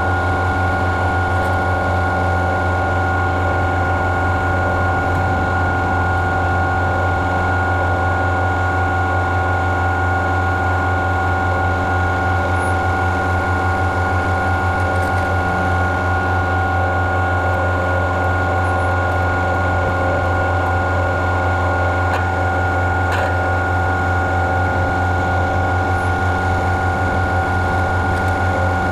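Engine-driven farm machinery running at a steady speed, with a constant high whine over a low hum and a fast mechanical rattle.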